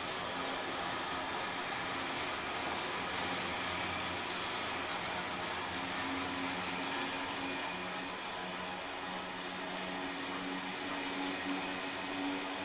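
Network Rail high output engineering train rolling past: a steady rushing rumble of wheels on rail with a low, even mechanical hum under it.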